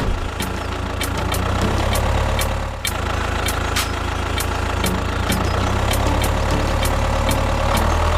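Engine running steadily with a deep rumble, with sharp clicks about three times a second.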